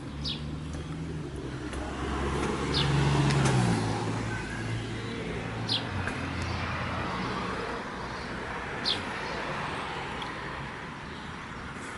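Outdoor street ambience: a car passes, swelling and fading over a few seconds. A bird gives a short falling chirp four times, a few seconds apart, over a low steady rumble.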